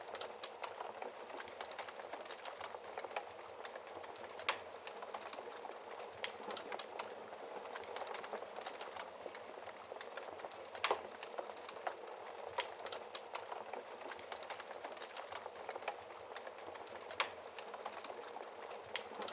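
Fire crackling: a steady soft hiss full of small snaps, with a few louder pops standing out.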